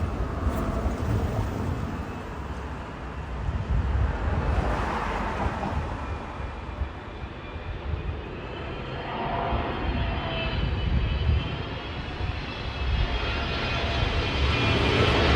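Jet engines of a Boeing 777 airliner coming in low on approach: a steady low rumble, joined about two-thirds of the way in by a high whine that grows louder toward the end as the plane nears overhead.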